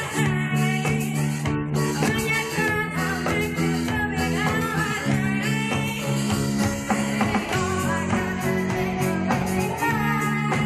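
Rock band playing a song: electric guitar, bass and drums, with a sung vocal line.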